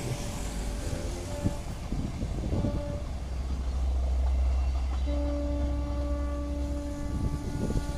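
Diesel-hauled local passenger train pulling away: a low engine rumble that swells through the middle, and a long two-note horn blast starting about five seconds in, with shorter horn notes before it.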